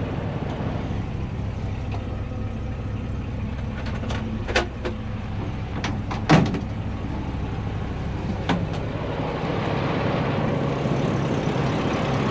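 Heavy truck engine running steadily, with three sharp metallic clanks about four and a half, six and eight and a half seconds in; the engine grows louder near the end.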